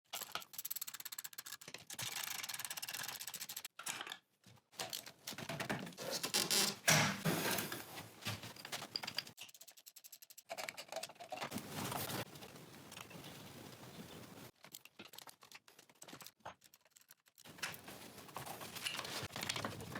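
Clicking and clattering of workshop hand tools and car parts, chopped into short pieces with abrupt silent gaps between them.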